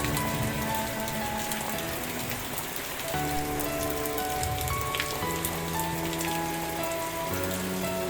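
Steady rain falling, with individual drops ticking, over soft background music of slow, held notes that change every second or two.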